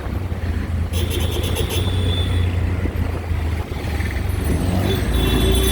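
Auto-rickshaw engine running with a steady low rumble during the ride, with a brief high-pitched ringing about a second in.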